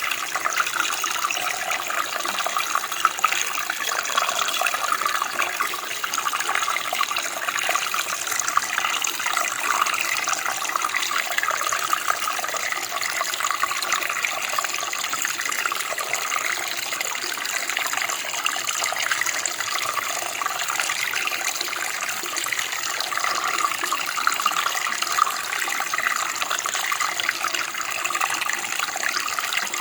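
Running water flowing steadily, a constant splashing hiss with small irregular variations.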